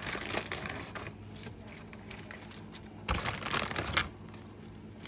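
Handling noises: scattered light clicks and crinkling, with a louder clattering stretch that starts with a thump about three seconds in.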